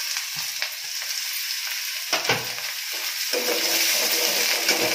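Sliced bitter gourd sizzling as it fries in hot oil with onions in a kadai. A slotted metal spatula knocks against the pan a few times as the pieces are stirred.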